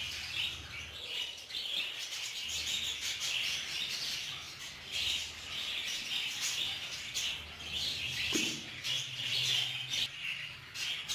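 Budgerigars chattering and chirping continuously, a busy run of short high chirps.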